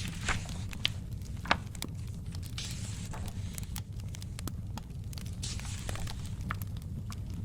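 Wood fire crackling, with sharp pops over a low steady rumble, while paper book pages are turned with a soft swish three times.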